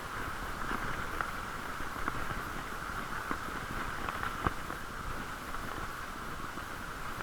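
Riding noise from a bicycle in strong wind, picked up through a camera's waterproof plastic case: a steady hiss with a low rumble, and irregular knocks and rattles, the loudest about halfway through.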